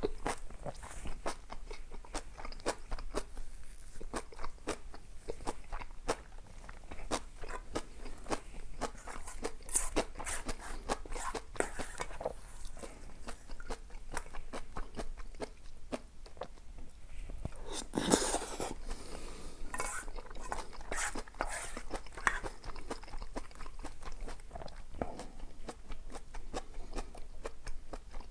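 A person chewing and biting food, with many quick, irregular crunches and mouth clicks, and one louder, longer sound about 18 seconds in.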